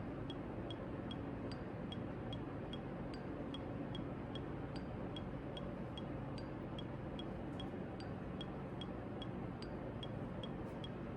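Quiet instrumental intro of a backing track: sustained low tones under a steady tick about two and a half times a second.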